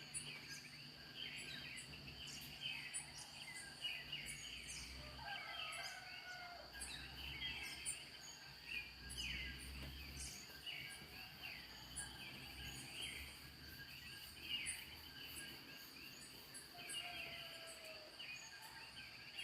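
Birds calling and chirping over a steady, high insect drone in a dawn chorus, with a faint low rumble underneath.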